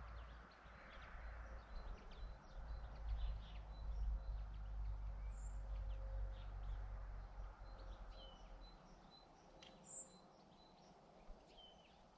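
Wild birds chirping and calling, many short high notes with a few longer calls that drop in pitch, over a low outdoor rumble that fades about two thirds of the way in.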